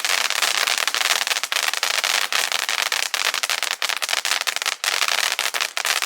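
Monkey Mania Star Burst firework's aerial effects crackling densely: a continuous rattle of rapid sharp pops and cracks over a hiss.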